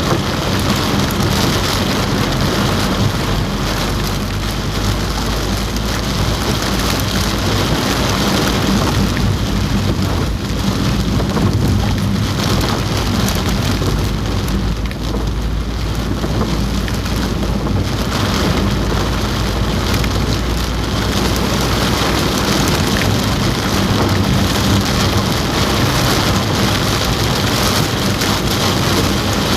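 Heavy rain drumming steadily on a car roof, heard from inside the car, with a low rumble underneath.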